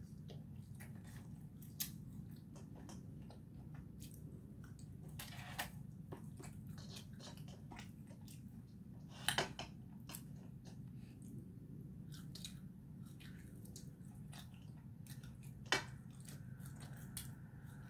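Soft chewing of fast food close to the microphone, with scattered light clicks and crinkles from handling the food and its paper wrapping, and two sharper clicks about nine and sixteen seconds in. A steady low hum runs underneath.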